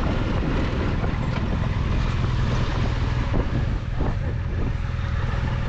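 Adventure motorcycle, a Triumph Tiger 1200 XCX, running steadily on a dirt road, with wind noise on the microphone. A few short knocks come between about three and four and a half seconds in.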